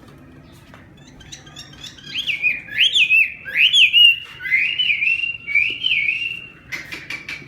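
A songbird singing a loud whistled song of sliding, looping notes, starting about a second and a half in. Near the end it switches to a quick run of short, sharp notes.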